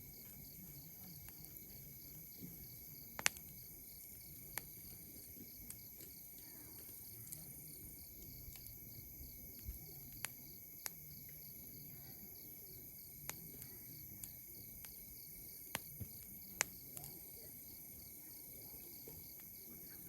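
Wood campfire crackling, with sharp pops at irregular intervals, the loudest at about three seconds and near sixteen seconds. Under it runs a steady, high insect chorus.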